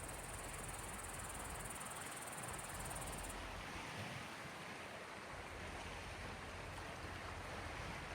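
Gentle sea waves washing on the Gulf of Finland shore: a steady soft wash of water. A thin high trill cuts off sharply about three seconds in.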